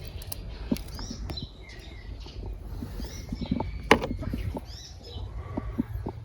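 Birds chirping repeatedly, short arched calls, over low handling rumble, with a few sharp clicks; the loudest click comes about four seconds in.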